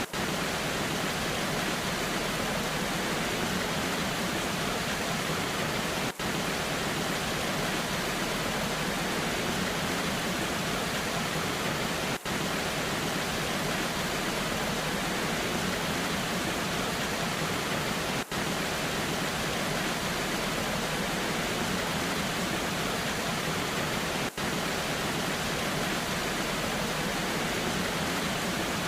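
Steady, even noise of a waterfall in the rain, spread evenly from low to high pitches, with a brief dip in level about every six seconds.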